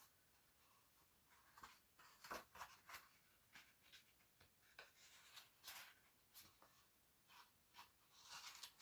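Near silence with faint, scattered rustles and light ticks from a paper picture book being handled.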